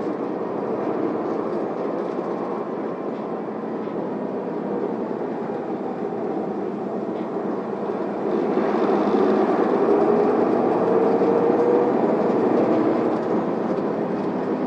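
Isuzu Erga city bus driving, heard from inside the passenger cabin: steady engine and road noise. It grows louder about eight seconds in, with a faint rising whine.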